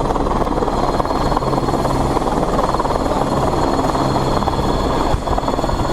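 Helicopter noise: rotor and engine running loud and steady.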